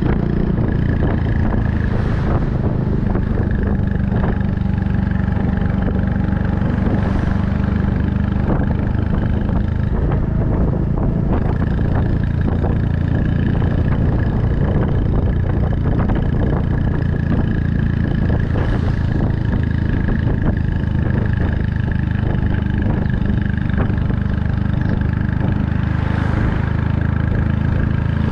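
Honda Super Cub 110's single-cylinder four-stroke engine running steadily under way, its exhaust through an aftermarket Kitaco mini Cabton muffler.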